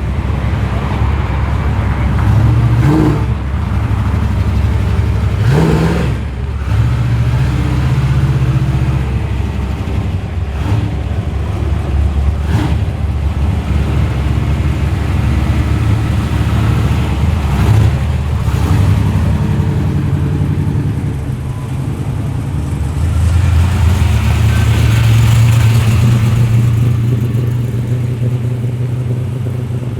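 Street muscle car engines running with a loud low rumble, blipped briefly several times, with a longer swell in revs near the end.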